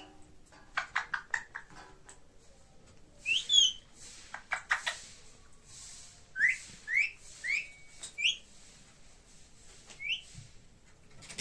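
Indian ringneck parrot giving short rising whistles, about six, spaced irregularly, with a few quick clicking notes between them.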